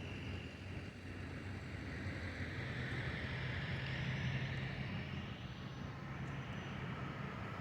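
Steady motor-vehicle engine drone and traffic hum, swelling a little in the middle and easing off again.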